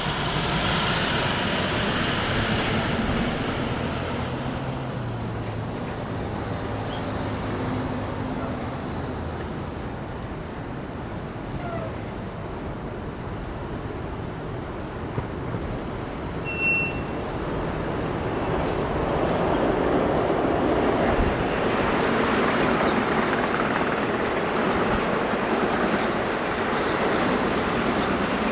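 Vehicle and road traffic noise: a steady rush that grows louder in the second half.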